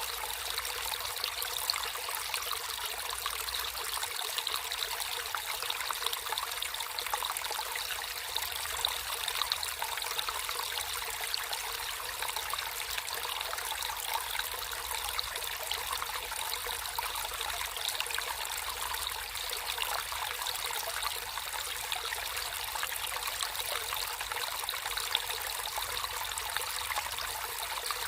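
Water flowing and trickling steadily in a natural stream, an even splashing babble.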